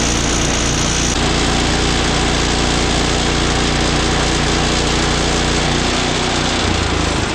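Gas engine of a Woodland Mills HM126 portable bandsaw mill running at full throttle as the blade saws through a large cherry log. The engine note rises slightly shortly before the sound cuts off abruptly near the end.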